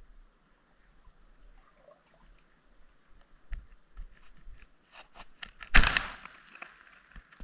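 Scattered clicks and knocks picked up underwater by a submerged camera, growing busier past the middle, with one loudest knock about six seconds in, trailing a short rushing hiss.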